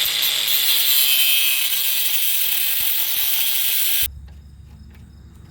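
Angle grinder cutting into the rusted steel jam nut of a car's outer tie rod end: a loud, steady, hissing grind that stops abruptly about four seconds in, after which a low hum remains.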